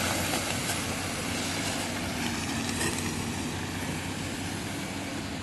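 Diesel engine of a heavily loaded BharatBenz truck running steadily, slowly getting a little quieter.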